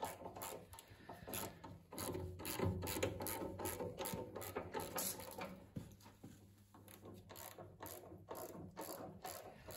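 Mechanical clicking at a steady pace, a little over two clicks a second, over a low hum.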